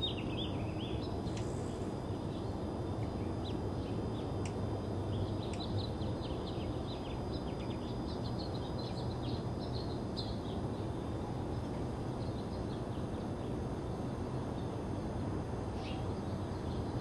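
Birds chirping: a flurry of short, high chirps through the first ten seconds or so and a few more near the end, over a steady low background rumble.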